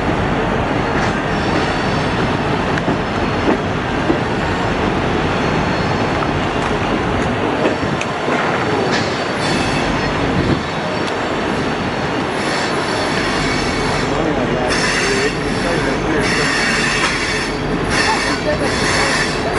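Royal Gorge Route Railroad passenger train running on the rails: a steady rumble of wheels and cars, with high wheel squeal that grows stronger and comes and goes in the second half.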